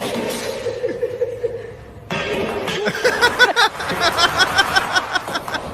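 People laughing. A held vocal sound comes first, then from about three seconds in a rapid run of ha-ha bursts, about five a second.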